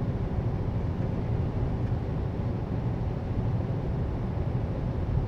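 Steady low rumble of a semi-truck's engine and road noise, heard inside the cab while driving.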